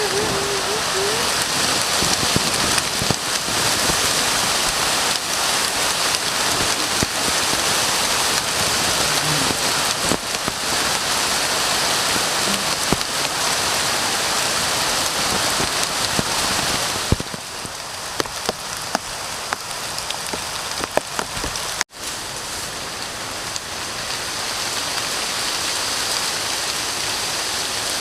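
Heavy rain falling steadily, with many separate drops striking close by. It gets somewhat quieter about 17 seconds in, with a momentary break at about 22 seconds.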